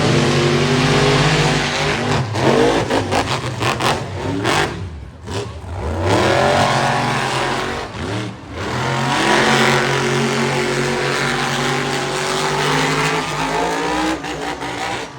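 Monster truck engine revving hard. The throttle is repeatedly opened and lifted, so the pitch climbs and falls in surges, with brief dips about a second in, around five seconds and around eight seconds.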